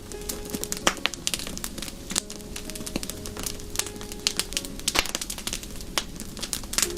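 Wood fire crackling, with many sharp, irregular pops and snaps over a low hiss.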